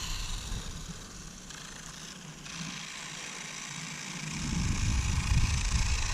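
Vintage RC motorcycle's brushed electric motor and tyres running on asphalt, a steady hiss and whir at a distance, with wind gusting on the microphone, the gusts easing about a second in and returning after about four seconds.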